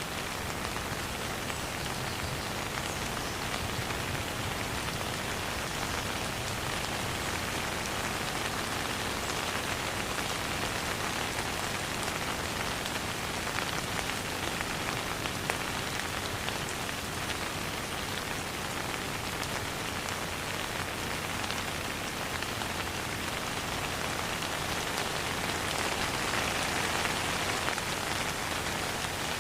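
Steady rain falling, a dense even patter of drops on a surface, with no thunder.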